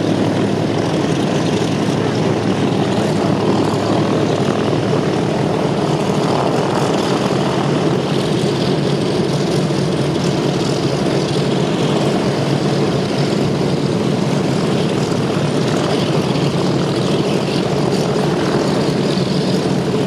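Douglas DC-3/C-47 Dakota radial piston engines and propellers running steadily and loudly, a deep, even drone.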